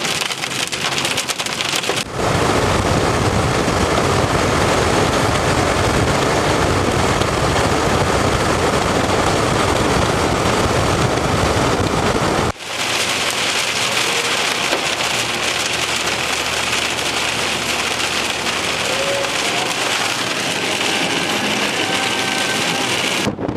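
Heavy rain beating down on a vehicle: a dense, steady hiss that changes abruptly about two seconds in and again about halfway through.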